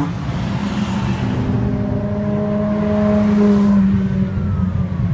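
Exotic sports car engine running under acceleration, its note rising gradually and then dropping off about four seconds in.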